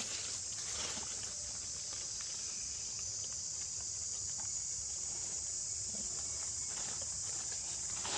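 Steady, high-pitched chorus of insects buzzing without a break, with faint scattered ticks and rustles beneath it.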